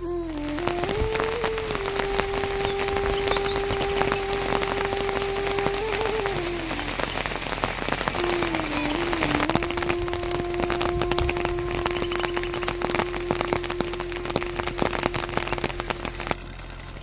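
Steady heavy rain falling, a dense spray of drop impacts, which starts suddenly and cuts off shortly before the end. A long held low musical tone that slides between notes sounds over the rain.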